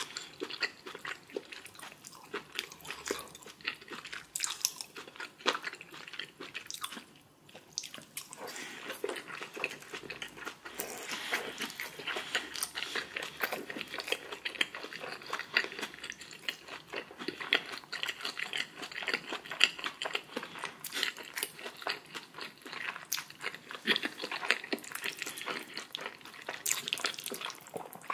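Close-miked eating sounds: biting and chewing food, with many small wet clicks and crunches, pausing briefly about seven seconds in.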